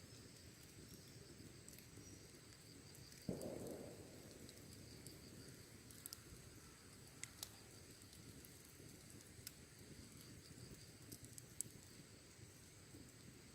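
Wood fire burning quietly, with a low steady rush, scattered faint crackles and one sharper, louder knock about three seconds in. Insects chirp steadily in the background.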